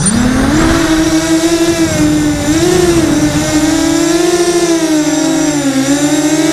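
Blackout 330 quadcopter's electric motors and propellers whining. The pitch climbs in the first half second, then wavers up and down.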